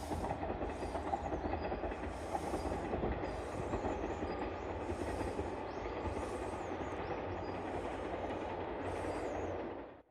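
Diesel train running along the track with a steady rumble, cutting off suddenly near the end.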